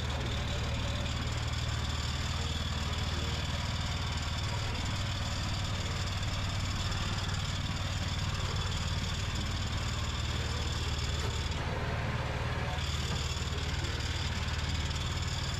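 Mini tractor's engine idling steadily with a low even hum, with a brief hiss about twelve seconds in.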